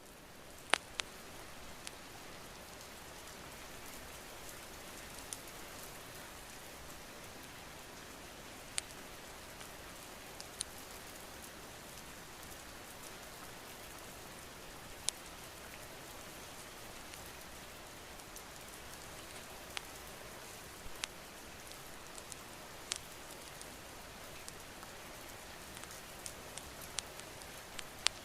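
Steady rain, with scattered sharp clicks and pops every second or few.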